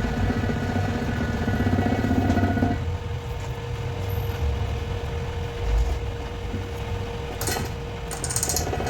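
Machinery running steadily with a low rumble and a whining tone that mostly drops away about two and a half seconds in, leaving one steady hum; a few short sharp clicks come near the end.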